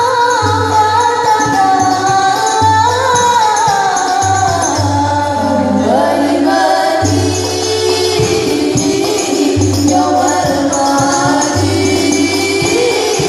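Sholawat sung by voices to percussion accompaniment: a gliding melody over repeated low drum beats and a steady shimmer of tambourine jingles.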